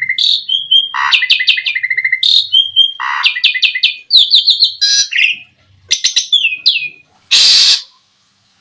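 Asian pied starling (jalak suren) singing: fast runs of repeated chirps and clear whistled notes in quick phrases, with one harsh rasping note near the end.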